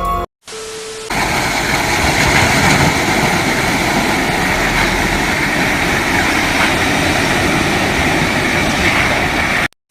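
A steady engine running, heard as an even mechanical noise that starts about a second in and cuts off suddenly near the end.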